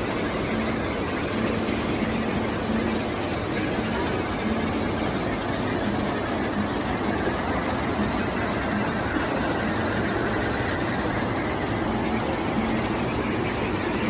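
Rain-swollen mountain stream rushing over a stepped weir and rocky ledges: loud, steady running water.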